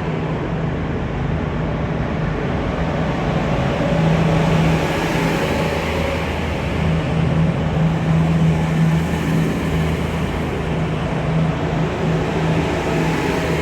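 EMR Class 222 Meridian diesel multiple unit's underfloor Cummins diesel engines running with a steady, deep hum that swells and dips a little.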